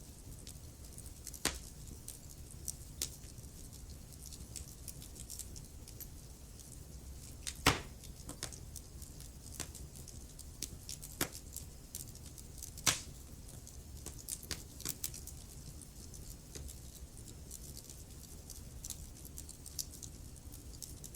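Wood fire crackling in a fireplace: scattered pops and snaps over a low, steady rumble of burning. Three sharper pops stand out, about a second and a half in, near the middle, and a little past the middle.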